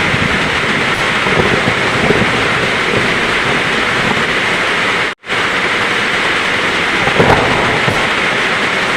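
Heavy rain pouring steadily, with low thunder rumbling under it. The sound drops out completely for a split second about five seconds in, then resumes.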